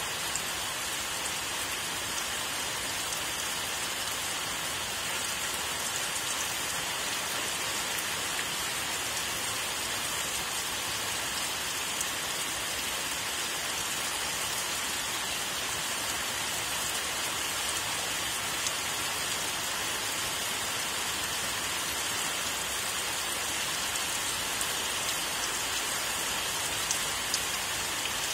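Steady rain: an even hiss of falling rain with a few sharper, closer drops scattered through it.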